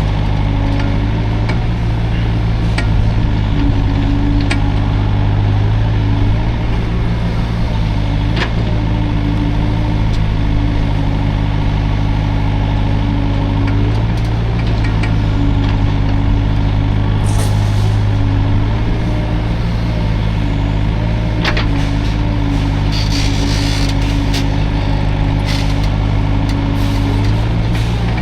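Hydraulic excavator's diesel engine running steadily, its note swelling and easing in stretches of several seconds, with a few sharp knocks.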